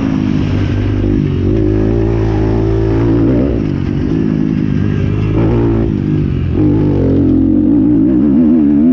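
Several motocross bikes racing, their engines revving up and down one over another as they ride the track.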